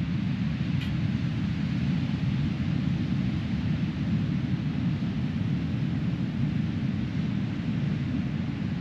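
Steady low rumble of wind buffeting the microphone on an open beach, with the hiss of breaking surf underneath.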